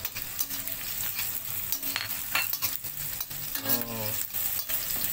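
Dried anchovies (ikan bilis) frying in hot oil with shallots and garlic, sizzling steadily, while a spoon is stirred through them with frequent clicks and scrapes against the pan. A brief pitched hum comes about four seconds in.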